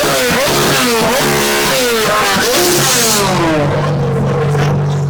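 A car engine being revved in quick repeated blips, its pitch rising and falling, then settling to a steady idle about three and a half seconds in.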